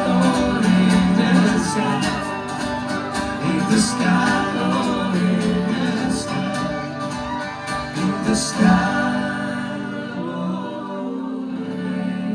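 Live country-bluegrass band playing an instrumental passage after the last sung line, with strummed guitar.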